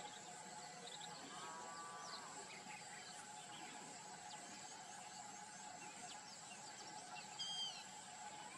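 Faint natural ambience: a steady insect drone with a few short bird chirps and whistles, about a second and a half in and again near the end.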